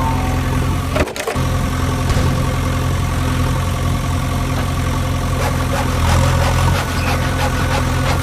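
Engine sound of a remote-control tractor running steadily at idle, with a thin steady whine above it. The sound drops out for a moment about a second in.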